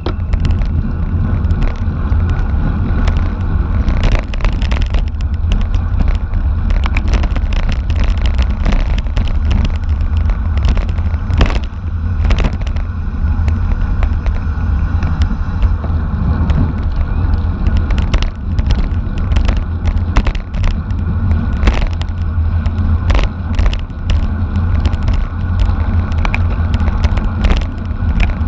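Wind buffeting a moving camera's microphone in a heavy low rumble, over road noise from a racing bicycle, with frequent sharp clicks and rattles.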